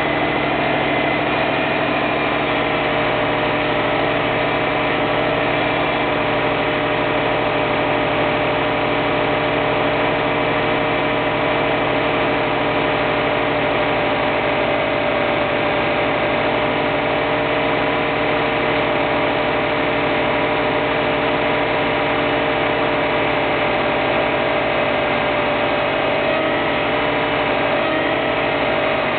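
Car engine idling steadily, with a constant tone running over it: an abnormal noise that the owner traces to the power steering pump.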